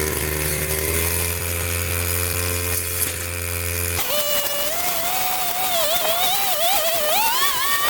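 Motorised garden power tool running: a steady low engine note, cut off abruptly about four seconds in by a higher whine that wavers and climbs in pitch.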